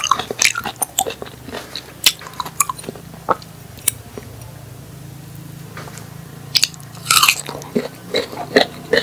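Close-miked chewing of crisp raw cactus pad: sharp, wet crunches and bites. A lull of about two seconds falls near the middle, where only a faint steady hum remains, then the crunching starts again.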